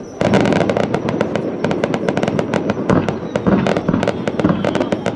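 Aerial fireworks going off: a burst of rapid crackling pops starts suddenly about a quarter second in and runs on densely, with deeper bangs mixed in.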